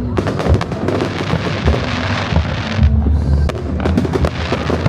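Fireworks bursting and crackling in quick succession, with low booms, over music playing.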